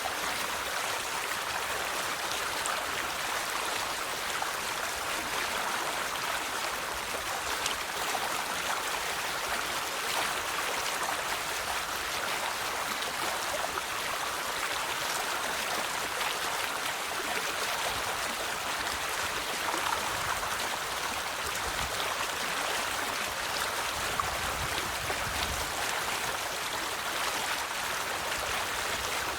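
River water flowing over stones with a steady rush and fine splashing.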